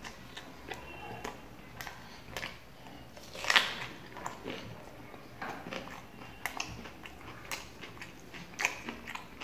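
Close-up eating sounds: a person chewing roti and curry, with wet mouth smacks and clicks and one louder bite about three and a half seconds in.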